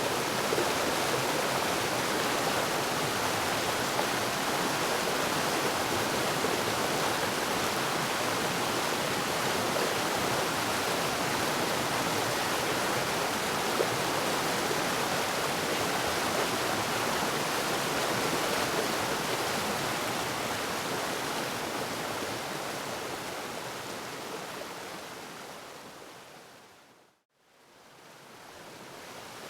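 Waterfall rushing steadily, an even roar of falling water. Near the end it slowly fades out to silence for a moment, then fades back in.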